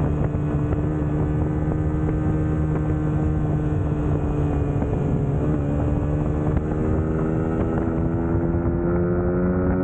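Suzuki GSX-S150's single-cylinder four-stroke engine running under steady throttle, its pitch climbing slowly over the last few seconds as the revs rise.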